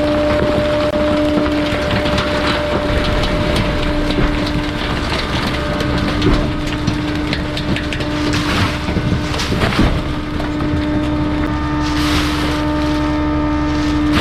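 Bulky-waste garbage truck compacting its load, with crackling and snapping as material is crushed, heaviest in the second half, over the truck's steady, unbroken hum.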